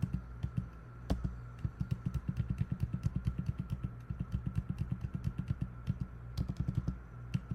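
Rapid, even clicking of computer keys, about five a second, as image frames are stepped through one after another. A steady low electrical hum runs underneath.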